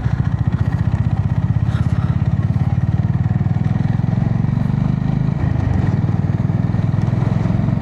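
Honda GB350S single-cylinder engine running at a steady cruise, a fast, even throb under road and wind noise, heard through a mic inside the rider's helmet.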